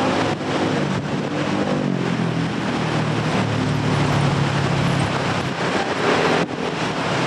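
A distant train approaching along the track: a steady low drone with rumbling noise and a touch of wind on the microphone.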